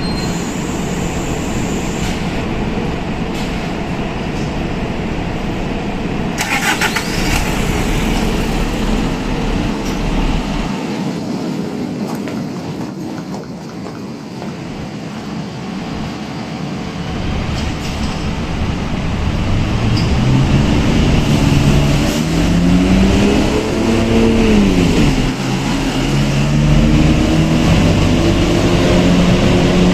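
Isuzu Erga city bus's four-cylinder diesel engine being started and running. In the second half a low mooing tone rises and falls in pitch over it, again and again.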